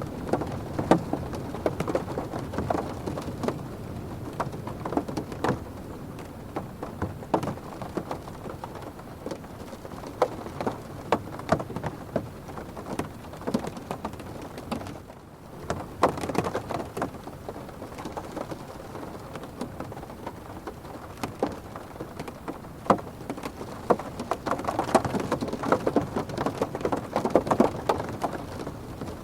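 Rain falling on a car's roof and windows, heard from inside the car: many separate drop hits over a steady hiss, heavier in waves near the start, just after halfway, and near the end.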